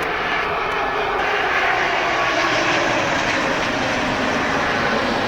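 Jet airliner engines running, a loud, steady, wide rush of noise, with a faint thin whine that stops about a second in.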